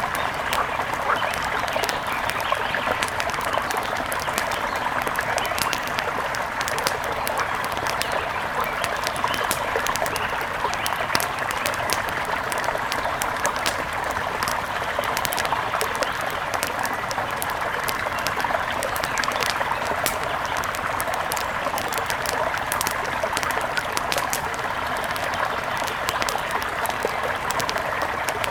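Wood fire crackling, with many small sharp pops, over the steady rush of a flowing river.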